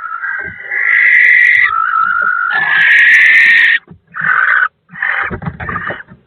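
Barn owl screeching during a fight with a kestrel in a nest box: two long, harsh screeches, then several shorter ones mixed with low thumps of the scuffle.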